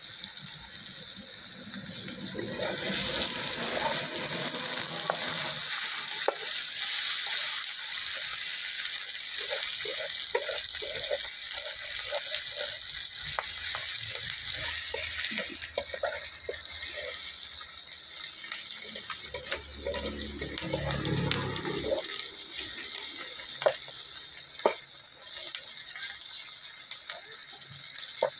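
Sliced onions and green chillies sizzling in hot oil in a blackened iron wok (karahi), with a metal spatula scraping and clacking against the pan as they are stirred.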